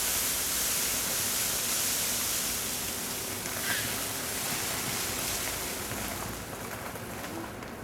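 Steady outdoor hiss that eases off a little near the end, with a faint tap a little under four seconds in.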